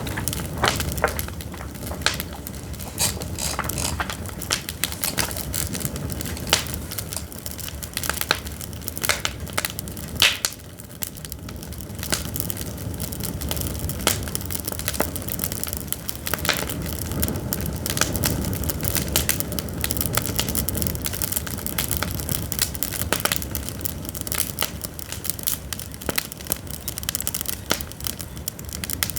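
Pine firewood burning, crackling and popping with sharp, irregular cracks over a steady low rush of flame.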